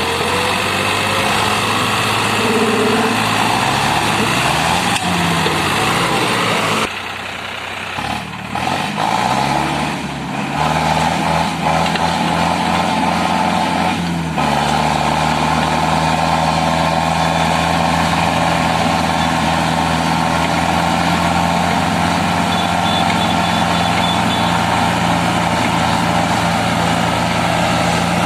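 Modified tractors' diesel engines running hard while pulling against each other in a tractor tug-of-war. The engine note wavers up and down for the first several seconds, drops away briefly about seven seconds in, then comes back and holds steady.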